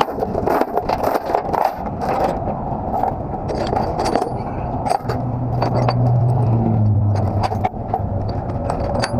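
Metal clanking and rattling, like chains and binders being handled during load securement, over a truck engine running low that comes up steady about five seconds in.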